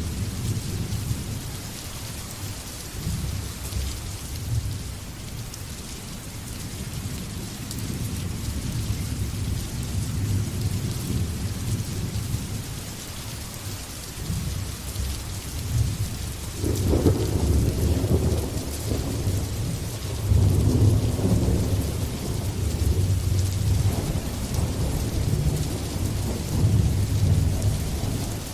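Steady rain hissing, under rolling thunder rumbling low. The thunder swells louder about halfway through and keeps rolling to the end.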